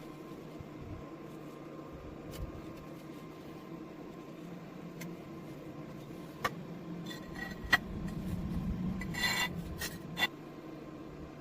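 Metal being handled: scattered light clinks and taps, with a short rubbing scrape a little after nine seconds, over a low steady hum.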